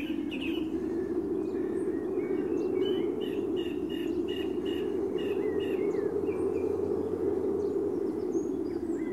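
Small birds chirping repeatedly in short high calls over a steady low hum.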